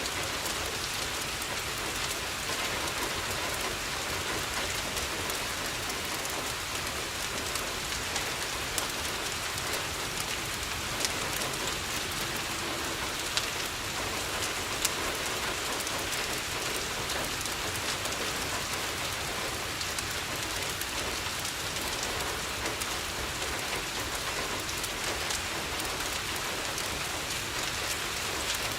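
Steady rain on a window, with a few sharp crackles from a wood fire near the middle.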